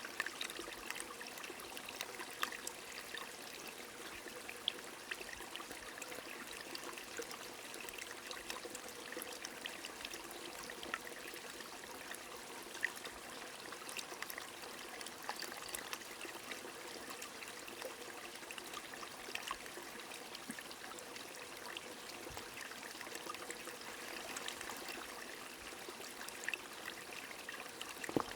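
A small stream trickling steadily, with scattered raindrops ticking throughout.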